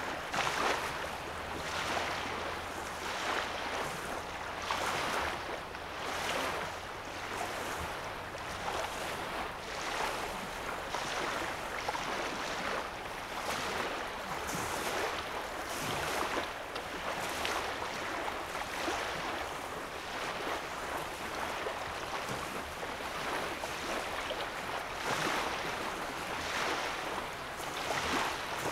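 Small lake waves lapping on a sandy shoreline, washing in one after another about every one to two seconds.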